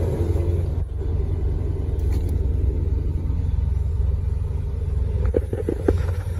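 2020 Ford Mustang engine idling steadily in Park with a low rumble, at about 1000 rpm. A few light clicks sound near the end.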